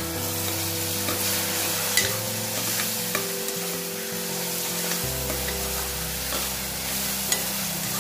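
Chopped tomatoes and green chillies sizzling in oil in a metal pot while a steel ladle stirs and scrapes them, with a few sharp clinks of the ladle against the pot, the loudest about two seconds in. The tomatoes are being sautéed soft with a splash of water.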